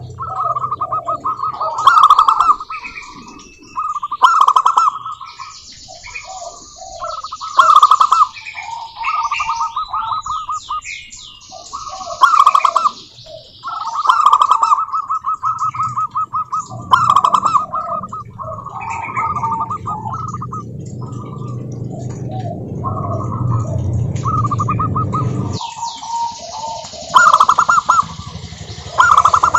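Zebra doves (perkutut) cooing, one rapid staccato phrase after another every two to three seconds. A low steady hum runs under the second half and cuts off suddenly near the end.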